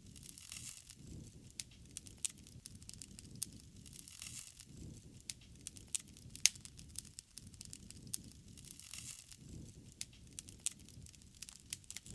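Wood fire crackling, with irregular sharp pops and snaps over a soft low rush of burning flames. One pop about halfway through is louder than the rest.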